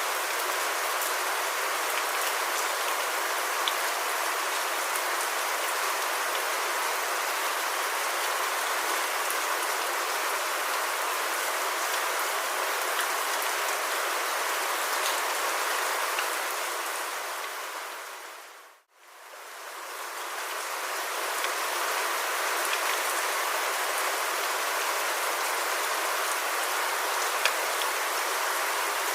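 Steady rain falling on a surface: a continuous even hiss with scattered faint drop ticks. The sound fades smoothly down to silence about nineteen seconds in, then fades straight back up to the same level.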